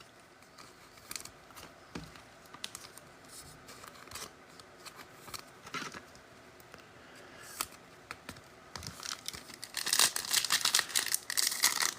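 Light handling clicks of trading cards, then about ten seconds in a foil card-pack wrapper crinkling and tearing as it is ripped open.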